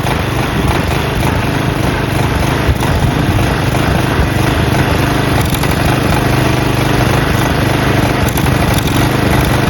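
Briggs & Stratton flathead single-cylinder engine of a push mower running loud and steady while sand and grit are fed into its intake.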